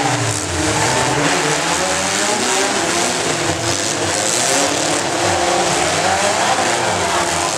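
Compact pickup truck engine running hard at high revs, its pitch wavering up and down.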